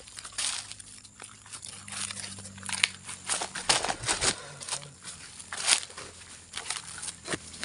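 Footsteps crunching through dry leaf litter and brushing past undergrowth, a run of irregular crackles.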